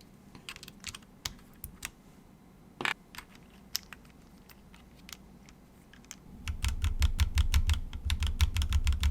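Keychron Q1 mechanical keyboard fitted with MMD Princess tactile switches being typed on: scattered single keystrokes at first, then fast continuous typing from about six and a half seconds in, each stroke with a deeper thud.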